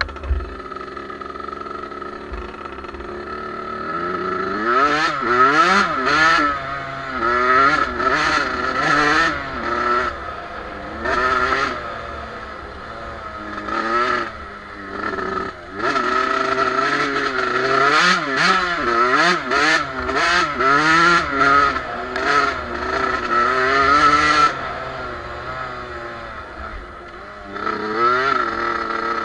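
Suzuki two-stroke motocross bike engine being ridden hard, revving up and down again and again as the throttle is worked and it shifts through the gears. It runs at low throttle for the first few seconds and eases off again for a few seconds near the end.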